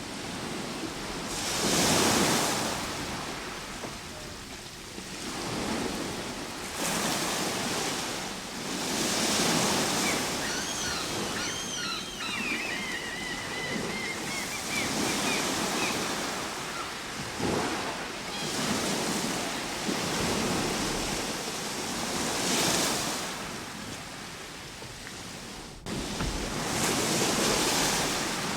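Ocean surf: waves breaking and washing in, the rush swelling and ebbing every three to five seconds. A bird calls briefly with a wavering chirp about eleven seconds in.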